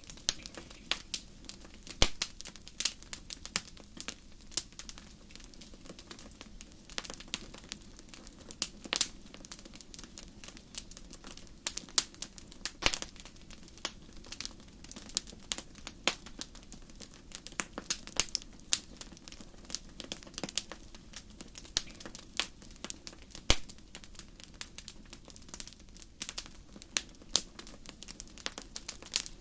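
Fireplace fire crackling: irregular sharp pops and snaps, several a second with a few louder ones, over a low steady hiss.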